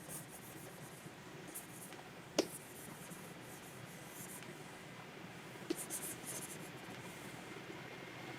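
Stylus nib scratching across a Wacom pen tablet surface in short, repeated strokes. A sharp click comes about two and a half seconds in and another near six seconds.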